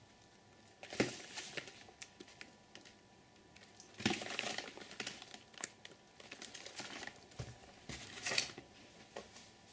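Firework cakes being handled: packaging rustling and crinkling with light cardboard knocks, in a few separate spells about a second in, around four seconds in and near eight seconds in.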